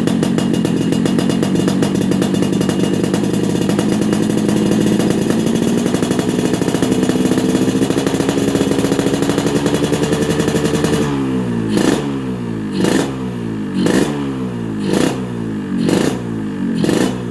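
Yamaha RX-King 135 cc single-cylinder two-stroke engine running through a Peak Racing 'standar racing' exhaust. It is held at a raised speed that creeps slowly higher, then about eleven seconds in it drops back and is blipped about once a second, six quick revs.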